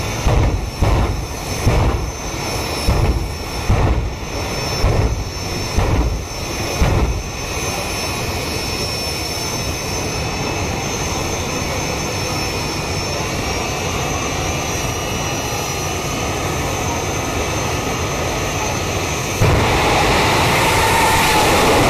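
Jet funny cars' turbine engines running. For the first several seconds there is a low thump about once a second, then a steady high whine, and near the end a sudden, louder rush as the engines open up.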